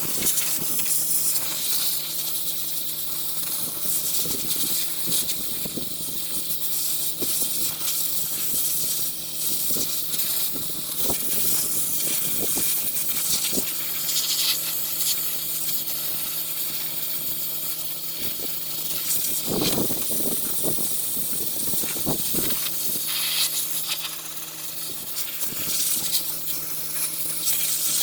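Compressed-air tool hissing steadily, with a crackling, sandy edge and a steady low hum underneath.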